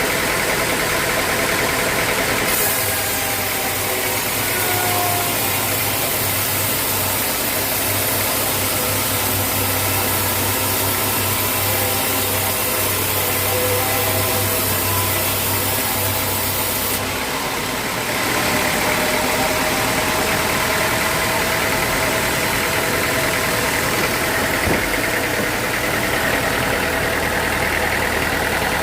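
Sawmill machinery running steadily with an engine-like hum. About two seconds in, a low hum and a bright hiss join it, and both drop away a little over halfway through.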